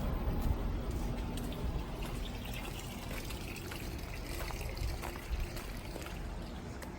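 Outdoor air-conditioner unit running: a steady low hum under an even rushing of fan air, with a few faint clicks.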